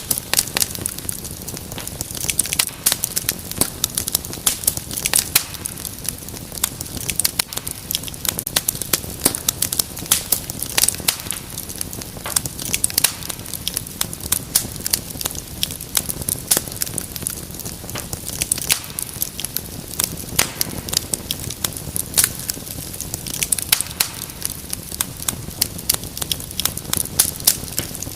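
Wood fire crackling in a fireplace: dense, irregular sharp pops and snaps over a steady low rumble of flames.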